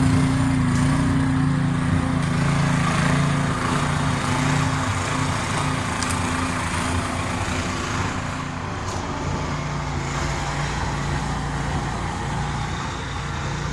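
Small engine of a snow-clearing machine running steadily, growing slightly quieter toward the end.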